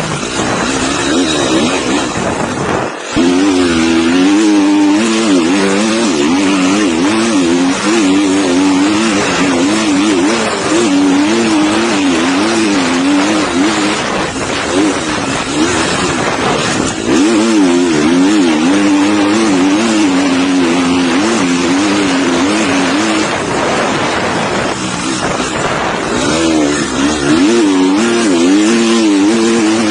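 Dirt bike engine at full throttle, its pitch rising and falling rapidly as the throttle is worked over rough sand, heard close up under heavy wind noise. The engine drops away briefly about three seconds in and eases off for a few seconds near the end before picking up again.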